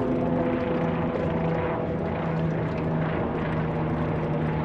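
A steady engine drone with a low hum, its main tone stepping down in pitch near the start and then holding level.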